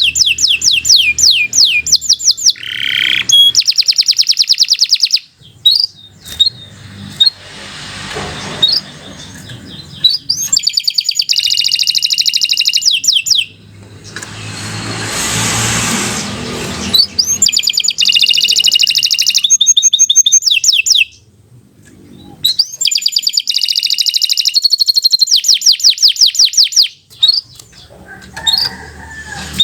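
A domestic canary singing in long runs of rapid trills, fast repeated high notes broken by short pauses. A rushing noise swells and fades in the middle.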